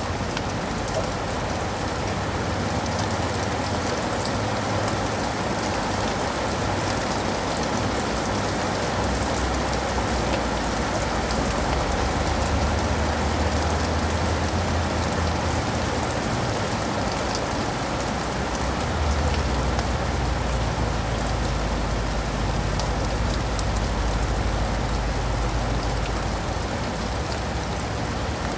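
Steady rain falling, a dense even patter of raindrops, with a low rumble underneath that swells and fades.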